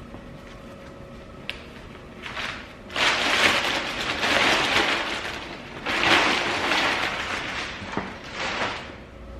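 Plastic bag crinkling and rustling as it is pulled off an engine. It starts after a quiet couple of seconds and goes on in loud, uneven swells for several seconds.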